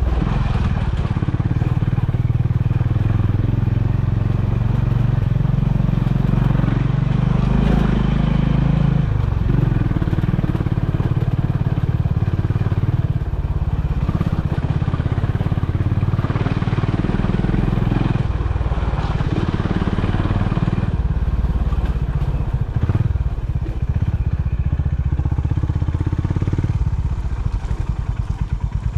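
Honda CB350's air-cooled single-cylinder engine running under way, its pitch shifting several times with throttle and gear changes. Near the end it settles into a slower, even thump.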